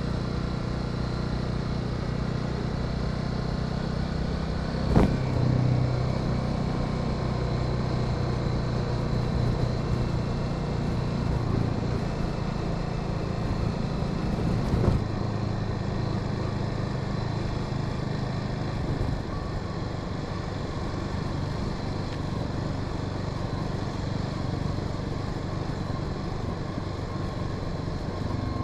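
Honda Sahara 300 single-cylinder motorcycle engine running steadily at cruising speed, with wind and road noise. A sharp knock comes about five seconds in and a smaller one about fifteen seconds in.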